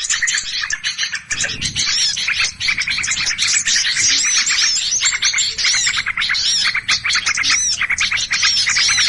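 A dense chorus of many small songbirds chattering and scolding at once, with rapid, overlapping chirps and repeated sharp arched notes that never pause. It is a bird-lure recording of agitated, alarm-calling small birds, played to draw other birds in.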